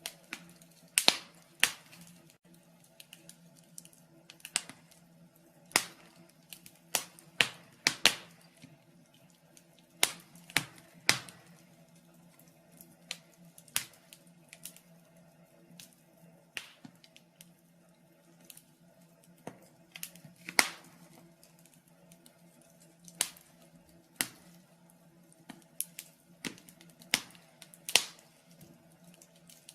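Wood fire in a fireplace crackling, with irregular sharp pops and snaps, some singly and some in quick clusters of two or three.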